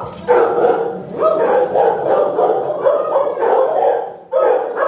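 Shelter dogs barking one bark after another, loud and nearly without pause, with a short break near the end.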